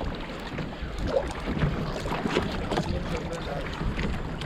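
Wind buffeting the microphone over the water-and-hull noise of a small fishing boat at sea, with scattered light knocks.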